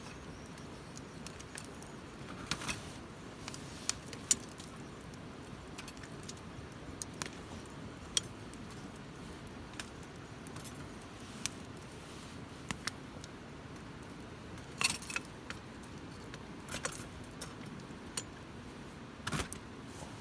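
Wood campfire crackling: irregular sharp pops and snaps over a low, steady rush of burning.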